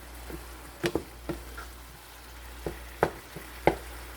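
Tomatoes, onions, garlic and ginger sizzling in a sauté pan while a utensil stirs them, knocking against the pan about seven times at uneven intervals.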